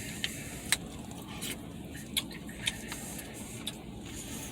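Close-up eating sounds: a few short sharp clicks and smacks from chewing and utensils, roughly one a second, over the steady low rumble inside the truck cab.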